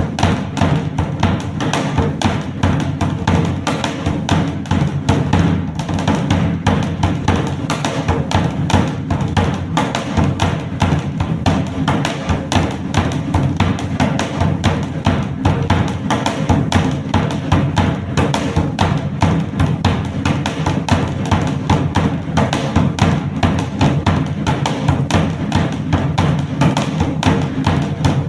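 Dhak, a large barrel drum, beaten with sticks in a fast, dense, unbroken rhythm at an even loudness.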